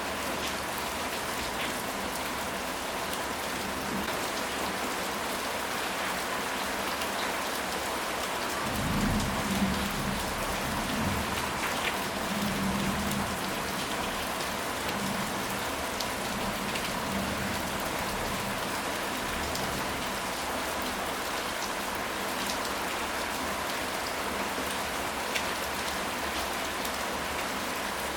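Steady rain falling on a surface, with scattered individual drop ticks. About nine seconds in, a low roll of thunder swells and fades over roughly four seconds.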